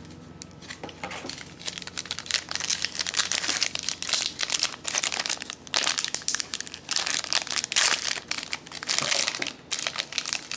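Crinkling and rustling of a trading-card pack's wrapper and packaging being handled and torn open, in irregular bursts that grow louder in the middle and near the end.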